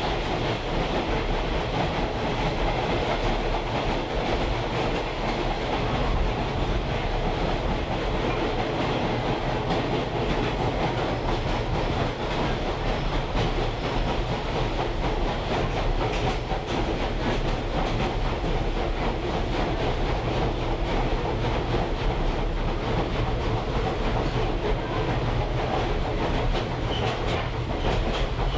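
Steady rumble and rattle of a train in motion, heard riding in a caboose, with the wheels clicking over the rail joints.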